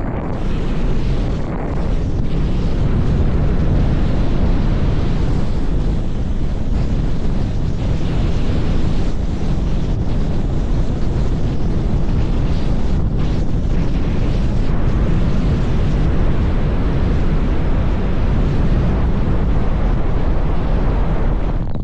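Strong wind buffeting the microphone, a loud, steady rushing rumble that is heaviest in the low end.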